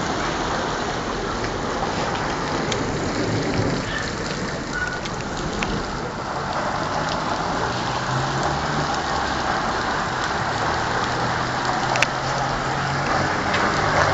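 A hailstorm: heavy rain and hailstones pelting down with a steady hiss, scattered with many small sharp ticks of ice striking hard surfaces, and one louder crack near the end.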